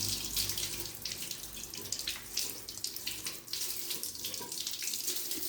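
Water splashing and trickling irregularly around an RO plant's sediment filter housing as the new cartridge is fitted and the housing rejoined, with a low steady hum underneath for the first half.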